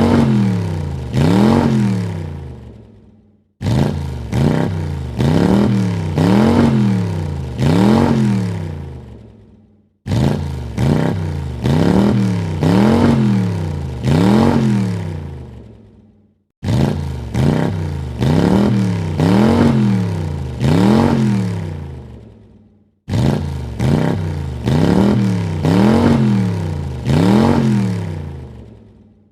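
A car engine revved in quick blips, its pitch rising and falling back three times in a row, then fading away. The same short recording repeats, cutting in afresh about every six and a half seconds.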